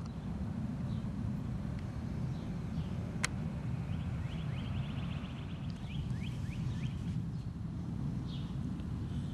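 Birds chirping in short, quick falling notes, with a fast run of chirps about four to six seconds in, over a steady low rumble. A single sharp click about three seconds in.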